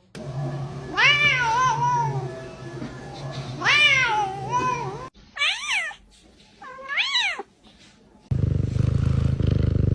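Cat meowing: two long drawn-out meows that rise and then fall in pitch, followed by two shorter meows. About eight seconds in, a loud, steady low buzzing hum starts and carries on.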